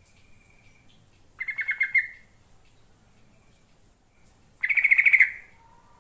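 Yellow-vented bulbul (trucukan) singing: two short, bubbling phrases of rapid notes, about three seconds apart.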